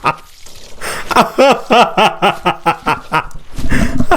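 A person laughing in a quick run of short pulses, several a second, followed near the end by a loud low thud-like rumble.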